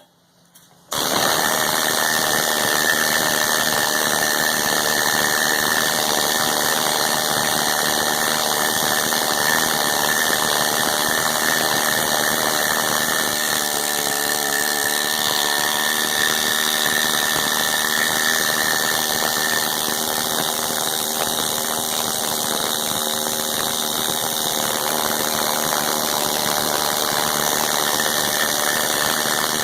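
A handheld power tool starts up about a second in and runs continuously with a steady high whine, stripping old paint off a small-block Chevy's cast iron engine block.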